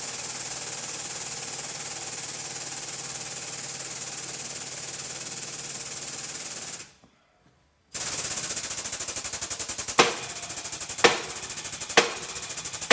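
Air-over-hydraulic bottle jack in a shop press, its air pump chattering fast with a loud hiss of compressed air as it pushes leaf spring bushings out. The sound cuts out for about a second partway through, then starts again with sharp clicks about once a second.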